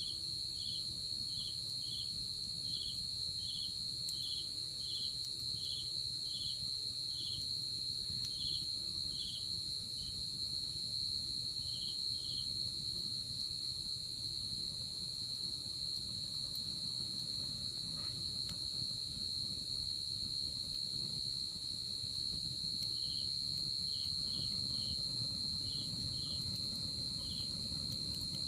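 Night insects calling: a steady high-pitched trill, with a second insect chirping in short pulses about one and a half times a second that stops about twelve seconds in and starts again near the end. A low, rough rustle of a wood campfire runs underneath.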